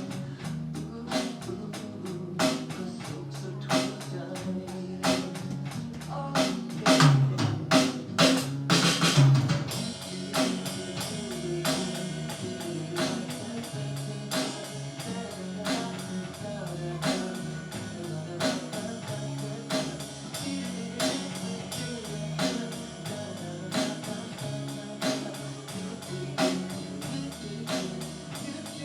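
Live drum kit and ukulele playing an instrumental passage of a pop song, with a run of loud drum hits about seven to nine seconds in, after which cymbals keep up a steady wash over the beat.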